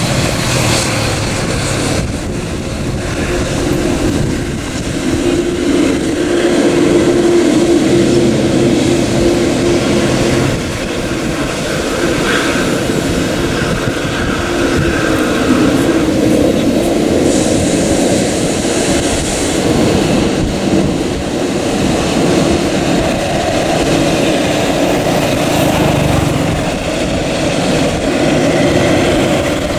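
Airliner jet engines running steadily: a loud, even rumble with a low hum held throughout.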